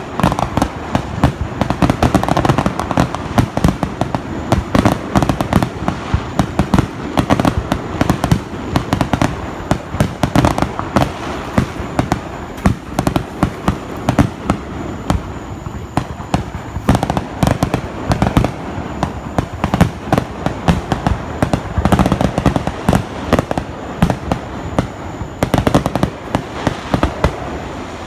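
Fireworks exploding in rapid, continuous succession: a dense run of booms and sharp crackling reports, many each second, with no real pause.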